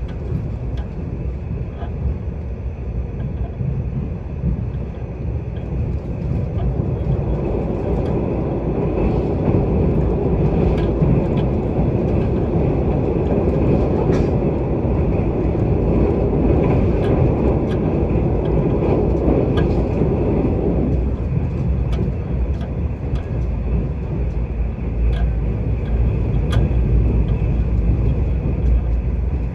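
Mugunghwa-ho passenger train running at speed, heard from inside the carriage: a steady rumble of wheels on rail. The rumble grows louder about a quarter of the way in, while the train crosses a river bridge, and drops back suddenly about two-thirds through, with faint light clicks over it.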